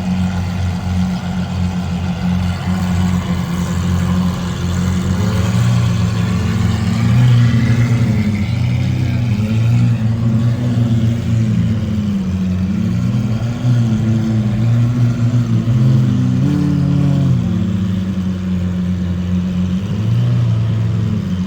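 A car engine idling, its pitch wavering up and down through the middle.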